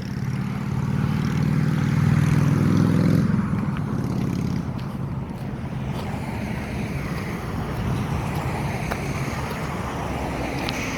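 A motor vehicle's engine running, loudest about two to three seconds in, its note dropping away after about three seconds. A steady wash of surf and wind follows.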